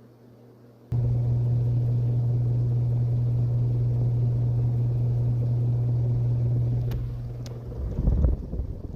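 Hunter Original ceiling fan motor switched on about a second in, giving a sudden loud, steady low hum. Near the end the hum eases and uneven gusts of air buffet the microphone.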